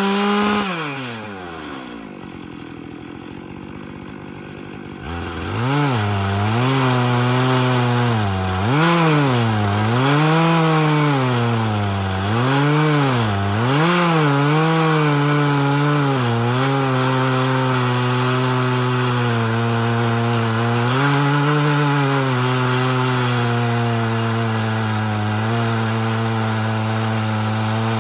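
Two-stroke chainsaw on a chainsaw mill ripping a live oak log. Its revs drop away just after the start and pick up again after about five seconds. The pitch then rises and falls over and over as the engine labours in the hard wood, before it settles into a steadier, lower-pitched pull under load.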